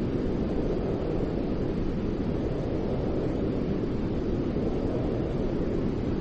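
Steady white-noise track: a continuous, even hiss weighted toward the low end, so it sounds deep and rumbly, with no changes.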